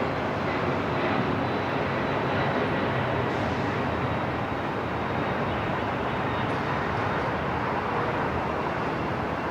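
Steady airport ambience: a continuous rumble and hiss like distant jet engines and the building's air handling, with a faint high steady whine that fades out in the second half.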